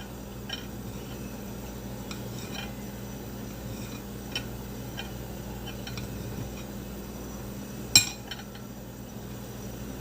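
Kitchen utensils and dishes clinking in scattered light knocks, with one louder clatter about eight seconds in, over a steady low hum.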